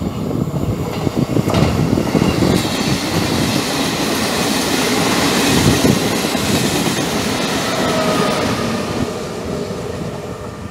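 Regional train passing close by, its coaches pushed by an E.464 electric locomotive at the rear, with wheels clattering over the rails. It builds from about a second in, is loudest about halfway through and eases near the end, with a faint wheel squeal late on.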